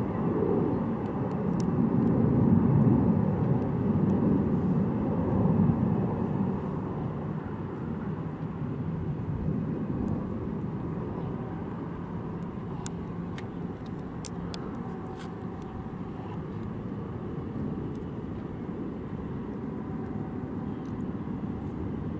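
Jet airliner engines rumbling steadily, louder over the first few seconds and then settling to an even level.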